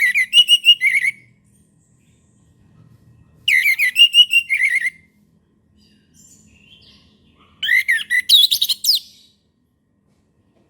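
Orange-headed thrush singing three short whistled song phrases, spaced about three and a half seconds apart; the third phrase differs, with quick upward sweeping notes.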